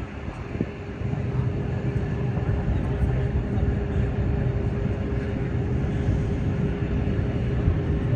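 Aircraft engine running, a steady rumble with a constant hum, growing louder about a second in.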